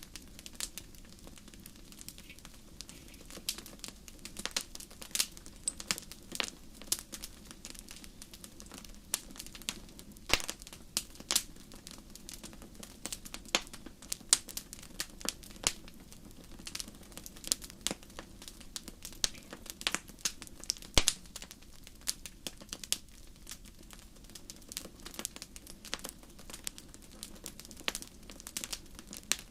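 Wood fire in a fireplace crackling, with irregular sharp pops and snaps of varying loudness over a low steady rumble.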